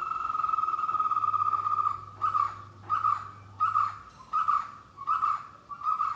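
White-cheeked barbet calling: a rolling trill that breaks into a steady series of repeated 'kutroo' notes, about one every 0.7 seconds.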